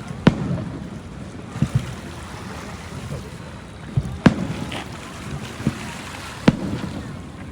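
Sea waves washing and wind on the microphone, broken by several sharp thumps, the loudest a little over four seconds in.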